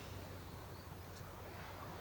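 Ocean surf and wind in a lull between breaking waves: a steady soft wash, with a few faint short high chirps and one small click in the middle.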